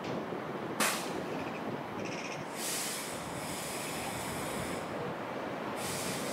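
Train at a station platform: a steady rumble, a sharp clank a little under a second in, then a hiss of released air lasting about two seconds, with another hiss starting near the end.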